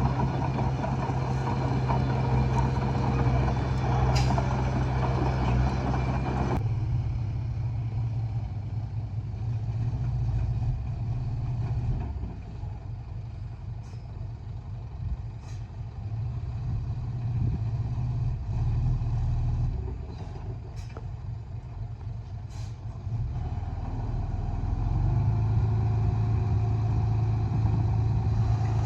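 Heavy diesel earthmoving engine running steadily. Its load and loudness rise and fall: an abrupt drop in the harsher upper noise about six seconds in, two quieter spells in the middle, and a pick-up again near the end.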